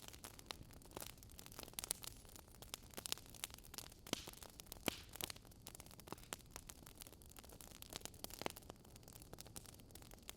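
Wood campfire crackling: irregular sharp pops and snaps over a faint steady hiss of burning.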